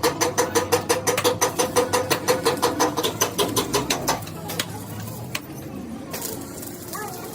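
Rapid, even metallic clatter, about seven ringing strokes a second, from a tool or machine working metal. It stops about four seconds in, leaving a few scattered clicks.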